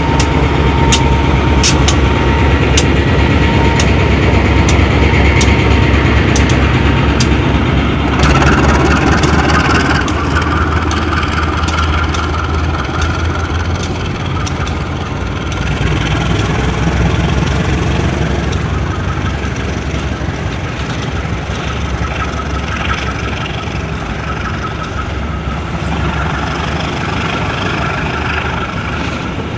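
A KAI CC 201 diesel-electric locomotive's engine running under load as a local train pulls away, with sharp clicks in the first few seconds. The low engine drone weakens after about twelve seconds, leaving the steady rumble of passenger coaches rolling past.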